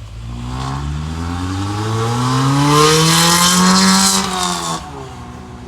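A car engine accelerating past, its pitch rising steadily for about four seconds and growing louder, then dropping away and fading as it goes by.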